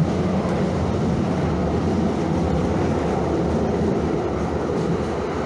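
Calgary CTrain light-rail train in motion: a steady rumble.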